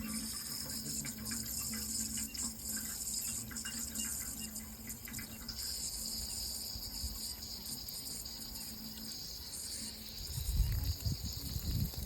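Running water with a steady, high-pitched chorus of insects over it, and a low rumble near the end.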